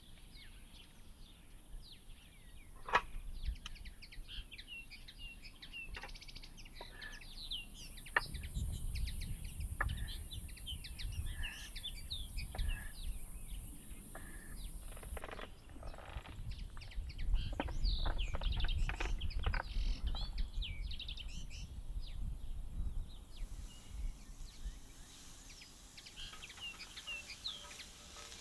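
Small birds chirping and singing, many short calls, with a few sharp knocks and a low rumble of handling noise through the middle.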